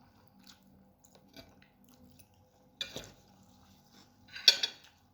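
Close-miked chewing of lagman noodles, mostly soft, with two short louder eating sounds, one about three seconds in and a stronger one near the end.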